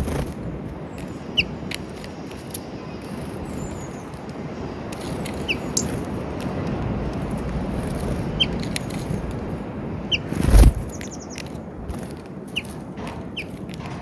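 Small wild birds at a peanut feeder giving short, high chirps every second or two over a steady low rumble, with scattered small clicks and a louder thump about ten seconds in.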